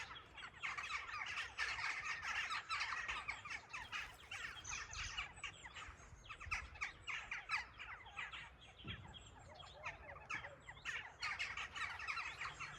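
Many small birds chirping and calling at once in a dense, overlapping chorus of short high chirps, thinning out a little in the middle before filling in again near the end.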